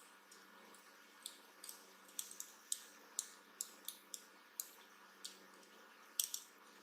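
About a dozen light, sharp clicks and taps at uneven spacing, with a double click near the end: small tools and parts being handled while a smartwatch is worked on.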